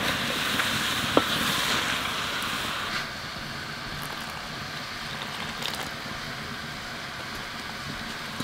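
Chicken frying with onions in ghee in a metal pot over a wood fire: a steady sizzle, louder for the first three seconds and then lower, with a single click about a second in.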